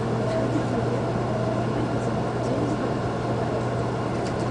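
Running noise inside a Shinkansen-type electric train's passenger car: a steady rumble of wheels and motors with a constant low hum.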